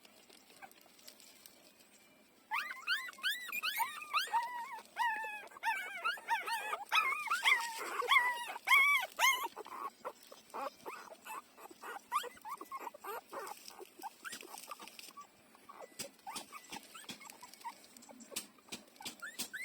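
Four-day-old puppies squealing and whining in a rapid run of short, high, arching cries from a couple of seconds in until about halfway. After that come many short wet clicks and smacks of the puppies nursing, with an occasional faint squeak.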